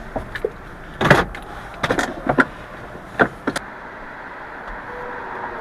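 A few sharp knocks and clunks, about a second in, twice around two seconds and once near three seconds, over a steady low rumble.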